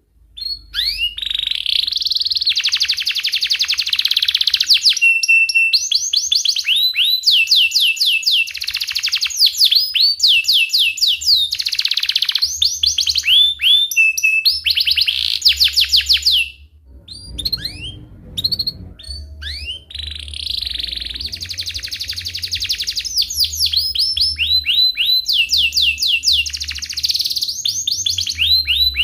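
Domestic canary singing in long rolling trills of rapid, repeated high chirps, with a short break about two-thirds of the way through before the song resumes. A faint low hum runs underneath.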